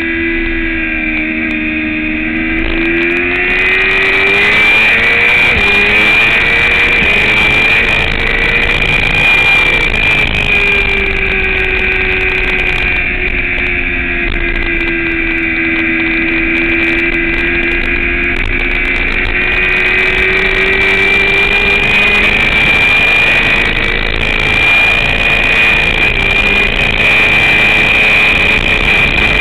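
Motorcycle engine at track speed, its revs dropping and climbing in long sweeps as it slows for corners and accelerates out of them, with a steady high whine running throughout.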